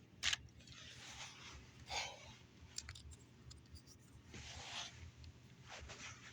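Plastic Lego pieces being handled and worked on a model car: a sharp click, a few light ticks and several short scratchy scrapes.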